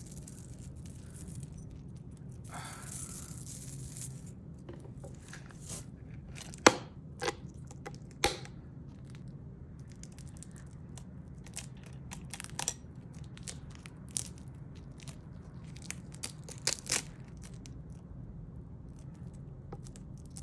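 A hard-shell handbag and its metal hardware being handled: scattered sharp clicks and taps, with a stretch of rustling and scraping about three seconds in. A steady low hum runs underneath.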